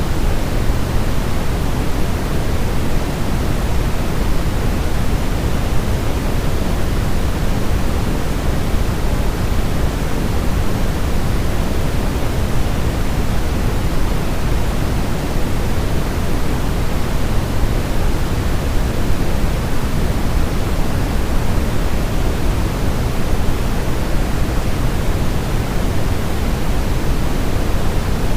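Continuous synthetic noise played as a baby-sleep sound, steady and unchanging, heaviest in the bass and thinning toward the treble.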